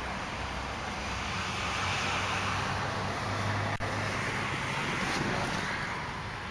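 Steady road noise from passing highway traffic, swelling a little in the middle and easing off near the end.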